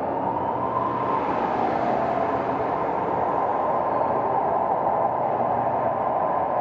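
Steady rushing, rumbling noise with no music or voices.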